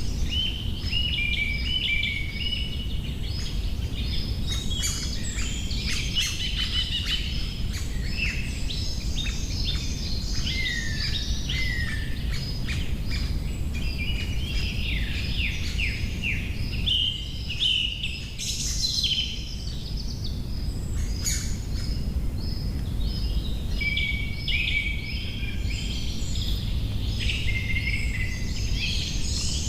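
Several small birds singing and chirping all through, in quick overlapping notes and short sweeping phrases, over a steady low background rumble.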